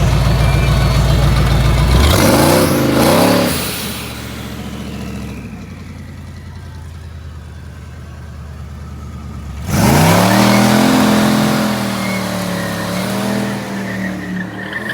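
Drag-racing vehicle engines: one runs loud, then revs up and down about two seconds in and fades away. Near ten seconds in, another engine comes in suddenly and loudly, its pitch rising and wavering as it pulls.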